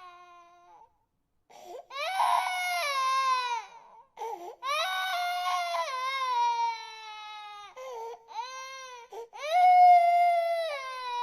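Infant crying: a series of long wails, each sliding down in pitch, with short breaths between them and a brief pause about a second in.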